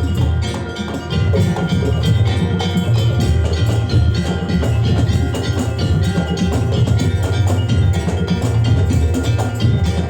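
Percussion ensemble music, loud and continuous: ringing bell-like and mallet tones over wood-block knocks and a driving low drum beat.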